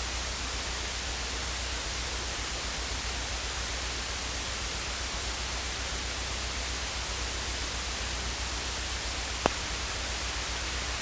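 Steady static hiss with a constant low hum beneath it, and a single short click about nine and a half seconds in.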